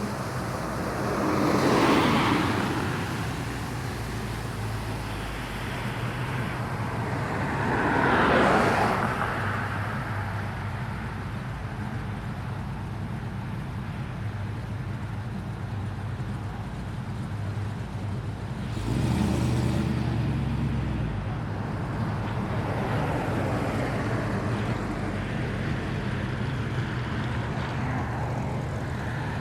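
Cars driving past on a street: two pass by about 2 and 8 seconds in, each swelling and fading, then a vehicle's engine rumble comes in abruptly about two-thirds of the way through, over a steady low hum of traffic.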